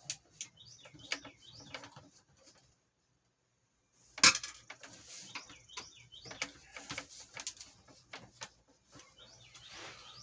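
Scattered clicks and knocks of a plastic box fan's front grille being worked loose, with one sharp loud click about four seconds in. Birds chirp in the background.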